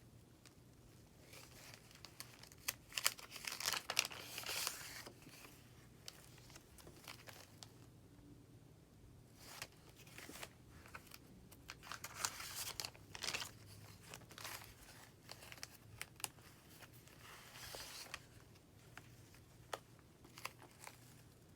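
Paper pages of a handmade junk journal being turned and handled, rustling and crinkling with small taps and clicks, in several bursts with short pauses between.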